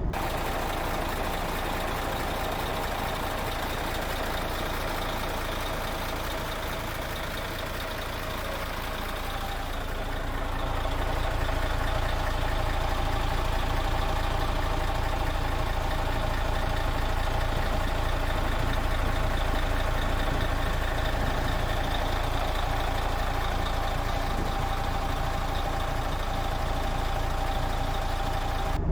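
Mercedes-Benz Actros truck's V6 diesel engine idling steadily, heard from inside the cab; the sound gets a little louder about ten seconds in and then holds steady.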